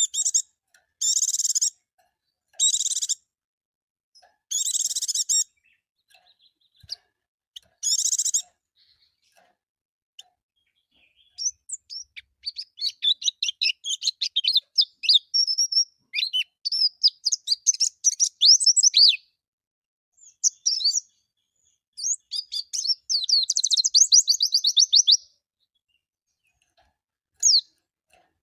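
A pleci (white-eye) calling: about five short, harsh chirping calls, then after a pause a long run of rapid, high twittering song notes that stops briefly and starts again.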